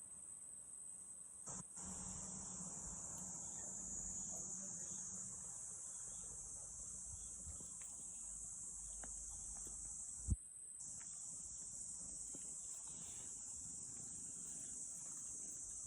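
Crickets chirring steadily in a high, continuous drone, with a single thump about ten seconds in.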